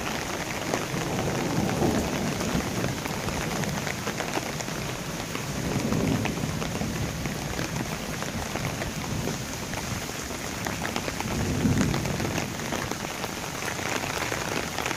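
Heavy rain pouring down, a dense steady hiss of a downpour, with low rumbles swelling up a few times.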